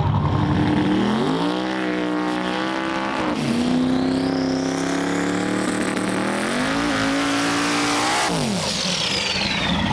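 Twin-turbo drag car engine revving: its pitch climbs about a second in, drops back and holds, climbs again and falls away near the end, with a high whine rising through the middle.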